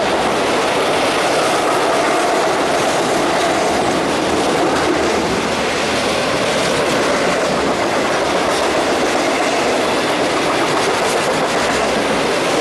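A freight train's cars rolling past, a steady, unbroken noise of steel wheels running on the rails.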